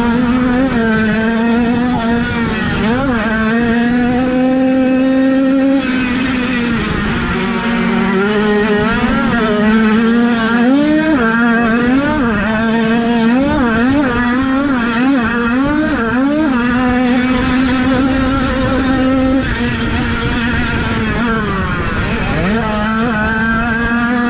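Small 50cc two-stroke motocross bike engines revving hard, more than one at once. Their pitch holds high, then rises and falls with the throttle, with a quick run of throttle blips about halfway through.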